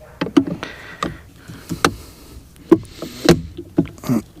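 Irregular clicks and knocks of parts being handled and fitted together as a Mercury boat remote control box is reassembled by hand, about a dozen sharp taps over a few seconds.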